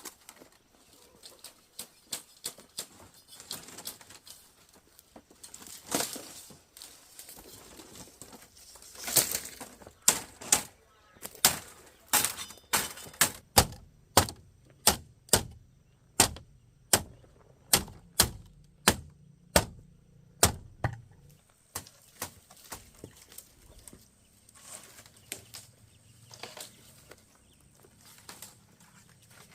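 Hammer blows: a steady run of sharp knocks, about two a second for some ten seconds in the middle, with lighter scattered taps before and after.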